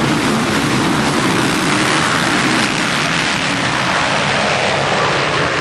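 Motocross bike engines running at race speed: a loud, steady wash of engine noise.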